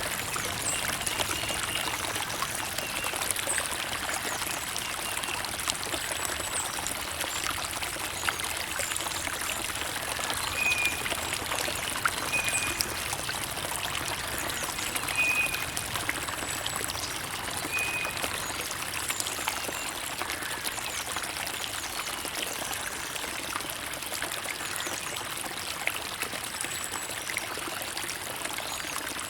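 Creek water trickling and splashing steadily over stones, with a few brief high chirps scattered through.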